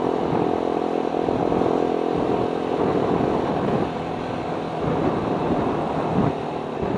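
Motorcycle with an Akrapovic exhaust running while being ridden, its engine note mixed with strong wind buffeting on the microphone.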